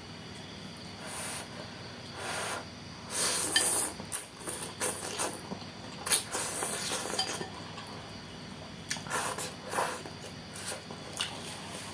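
Close-up eating sounds: cutlery clinking and scraping against a bowl of saucy noodles, with irregular short bursts of eating noise, the loudest a few seconds in.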